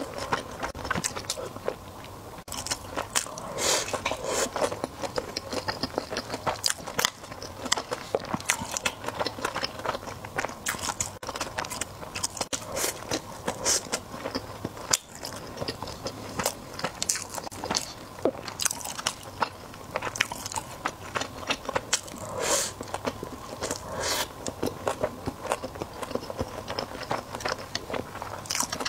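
Close-miked chewing of a mouthful of sushi roll: a steady, irregular run of small clicks and mouth smacks.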